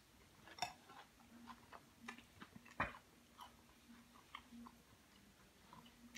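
Close-up chewing of a mouthful of salad: small irregular crunches and wet mouth clicks, with one sharper click a little under three seconds in.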